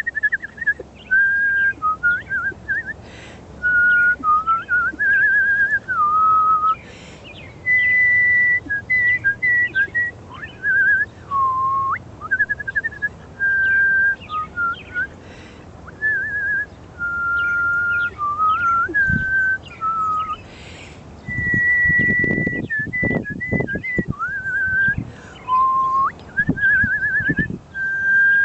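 A person whistling to call birds, especially cardinals: a string of held level notes and quick warbling trills, each stepping to a new pitch, with short pauses between them. A few low thumps come in about two-thirds of the way through.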